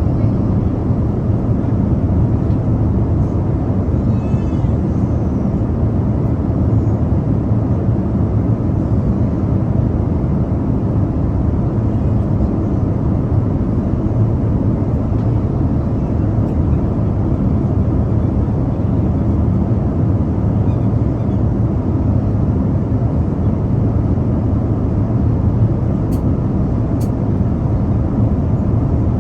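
Airliner cabin noise in flight: a steady, low rushing drone of engines and airflow that holds even throughout.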